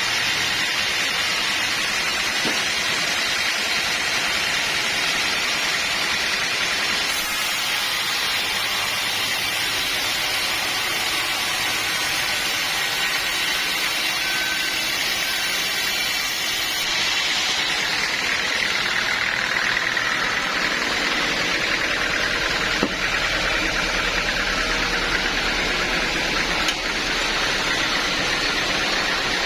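Sawmill machinery running steadily: an even mechanical noise of the saw and its engine, changing slightly in tone about seven seconds in and again about ten seconds later.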